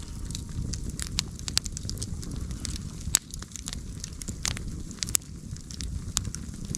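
Campfire burning, a steady low rush of flames with scattered sharp crackles and pops; the loudest pops come about three seconds in and again about five seconds in.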